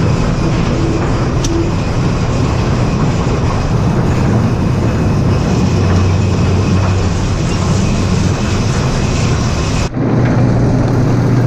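Farm machinery engine running loud and steady, a low hum under a dense mechanical rumble, as haylage and silage are loaded for mixing feed. The sound dips briefly near the end.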